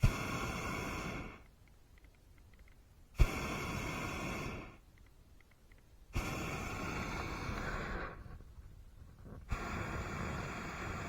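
Hot air balloon's propane burner fired in four short blasts of about one to two seconds each, every blast starting abruptly with a click as the valve opens.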